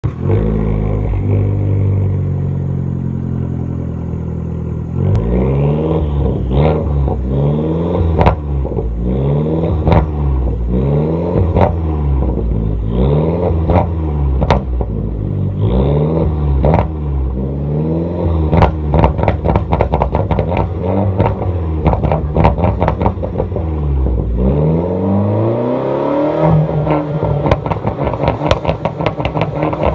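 Fiat 500 Abarth's turbocharged 1.4-litre four-cylinder, on its stock exhaust, revved in about a dozen repeated blips, each rev rising and falling with sharp exhaust pops on the lift-off. Near the end the revs settle and a rapid string of crackles and backfire pops runs on.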